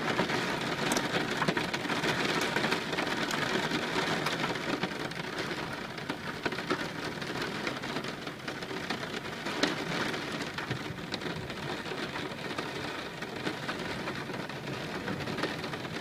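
Steady rain falling, with individual raindrops ticking sharply close by; heavier in the first few seconds, then easing a little.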